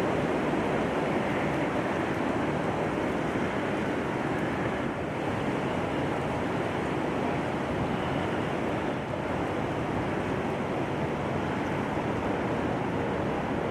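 Steady rushing noise with no distinct events, a slight dip about five seconds in.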